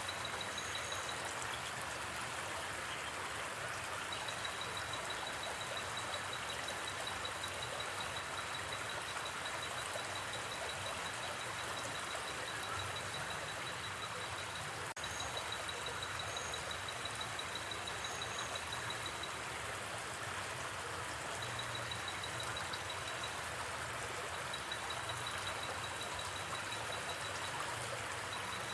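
Steady rush of a gently flowing river. Over it runs a high, rapidly pulsed trill in long stretches with short breaks, and a few brief paired chirps sound now and then.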